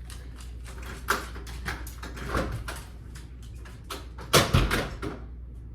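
Scattered clicks and knocks of things being handled, with one heavy thump about four and a half seconds in.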